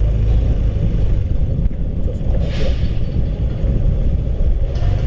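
Honda CB150R's single-cylinder engine running steadily under way, with road and wind noise and a brief rushing hiss about halfway through.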